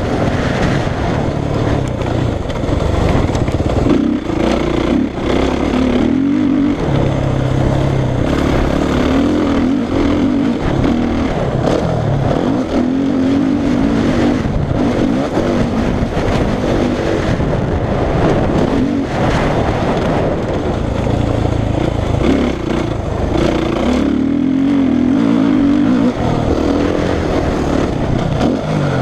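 Suzuki RM-Z450 motocross bike's single-cylinder four-stroke engine being ridden hard, revving up and backing off over and over as the throttle opens and closes.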